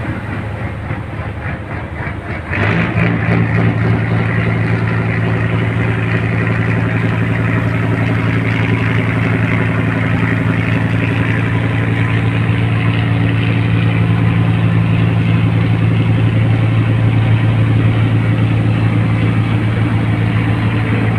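A boat's engine running under load; a little under three seconds in it is throttled up and settles into a louder, steady low hum.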